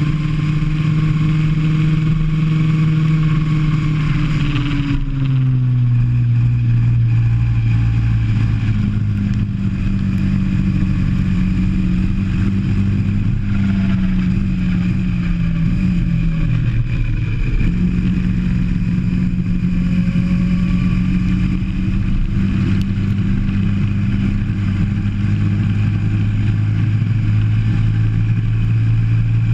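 Go-kart engine heard from onboard, running hard around the track. Its note drops sharply about five seconds in, then holds fairly steady with a brief dip a little past the middle.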